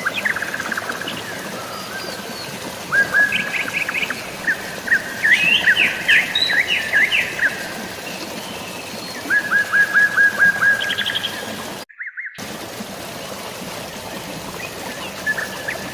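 Songbirds chirping in quick runs of repeated notes, several bursts spaced a few seconds apart, over a steady hiss of drizzling rain and flowing water. All sound cuts out for about half a second near twelve seconds in.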